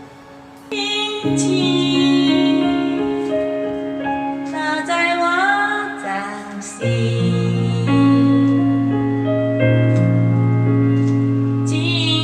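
Slow, gentle ballad: a woman singing over piano and sustained keyboard chords, the music filling out about a second in.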